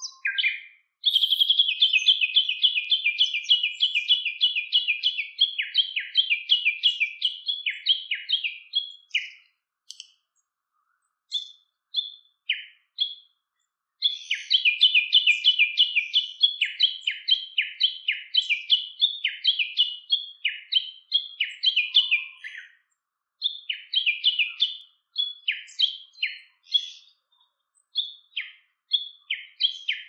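A bird calling in long runs of rapid, evenly repeated high chirps, about four or five a second, pausing twice and then breaking into shorter phrases.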